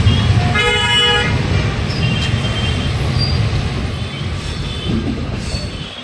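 Passenger train running over a bridge, a loud low rumble from the wheels on the rails that slowly eases off. A horn sounds once briefly about half a second in, followed by a few fainter short horn toots.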